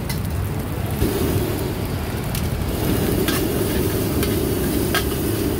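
Fried rice being stir-fried in a wok: sizzling that swells about a second in, with several short knocks and scrapes of a spatula against the pan, over a steady low rumble.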